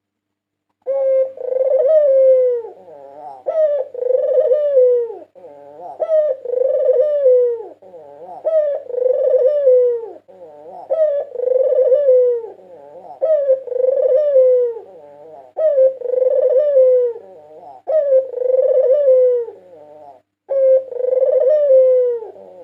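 White ringneck (Barbary) dove cooing over and over, about ten coo phrases, one roughly every two seconds, each ending in a falling note.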